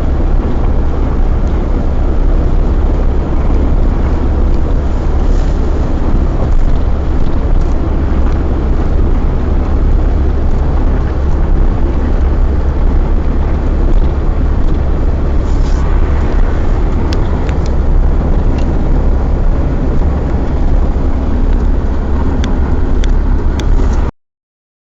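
Iveco vehicle driving along, heard from the cab: a steady, loud low rumble of engine and road noise, with a few faint clicks in the last third. The sound cuts off abruptly shortly before the end.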